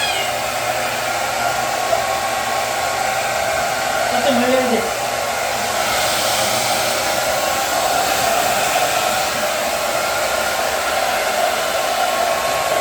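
Hair dryer blowing steadily, drying a wet kitten's fur. A kitten meows once, briefly, about four and a half seconds in.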